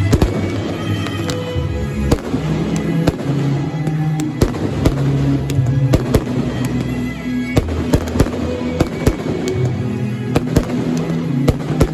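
Aerial fireworks going off: sharp bangs and crackles at irregular spacing, several close together at times, over music with long held low notes.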